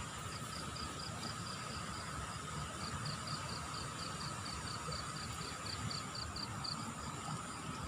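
Insects chirping: a high pulsed chirp repeating about four times a second, pausing once and stopping near the end, over a steady high drone and a constant low rushing noise.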